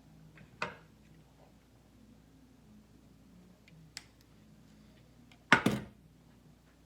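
Tools and parts being handled and set down on a workbench during wiring repair: a sharp knock about half a second in, a small tick around four seconds, and a louder double clack near the end, over a faint steady hum.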